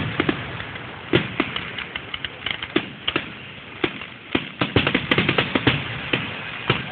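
Fireworks going off: a dense, irregular run of sharp bangs and crackles, several a second.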